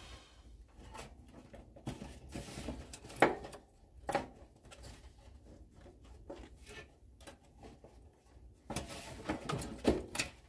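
Hand-handling noises from a dehumidifier's plastic casing as its control knob and housing are prised apart: scattered plastic clicks and knocks, with a sharp click about three seconds in and a louder stretch of rubbing and scraping near the end.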